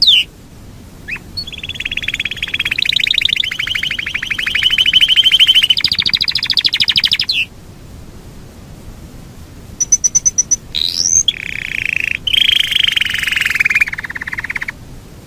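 Yorkshire canary singing long, rapid rolling trills. One roll lasts about six seconds. After a pause come a quick run of high notes and a rising note, then a second roll of about three and a half seconds.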